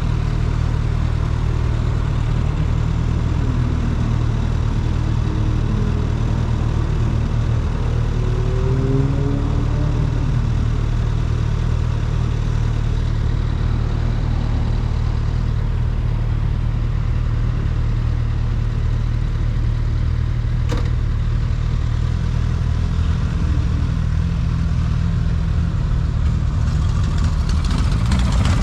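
Motorcycle engine idling steadily. Its revs begin to climb right at the end.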